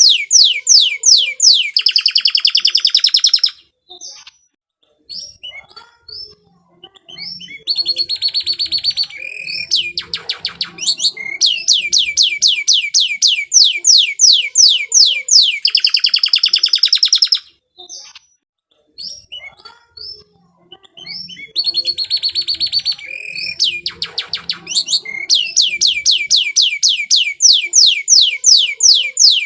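Domestic canary singing long phrases of fast repeated trills and rolls, high-pitched, breaking off twice for a few seconds between bouts.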